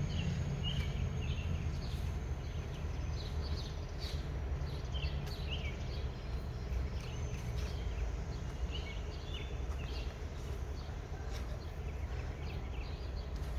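Wild birds chirping in short, scattered calls over a steady low background rumble.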